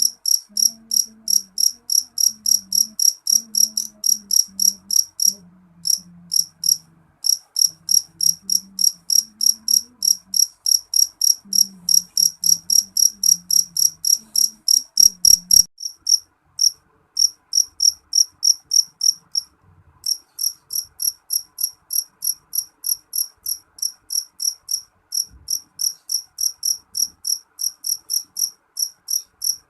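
A cricket chirping in an even rhythm, about three short high chirps a second, with a few brief pauses.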